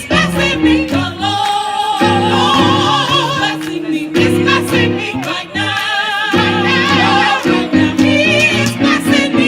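African-American gospel choir singing with wavering vibrato, several voices together over steady sustained low chords, in phrases with short breaks.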